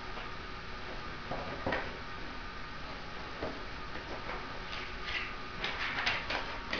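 A few light clicks and rustles of something being handled, more of them near the end, over a steady background hiss.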